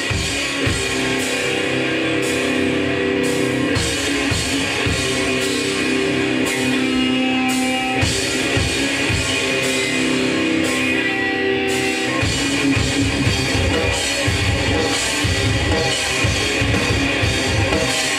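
Hardcore punk band playing live: distorted electric guitars and bass over a fast, steady drum kit, loud and dense throughout.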